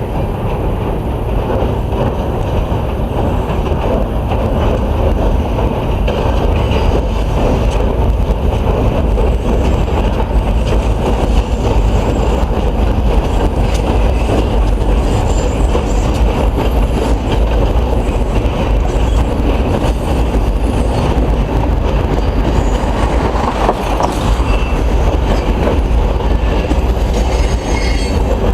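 First Coast Railroad freight train rolling across a trestle bridge, a steady loud rumble with wheel clatter over the rails, and faint high wheel squeals near the end.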